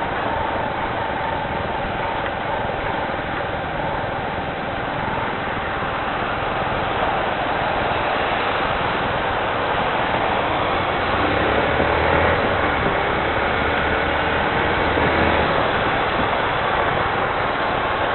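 Steady noise of a rainy street with vehicle engines running; a deeper engine rumble swells from about eleven seconds in and fades a few seconds later.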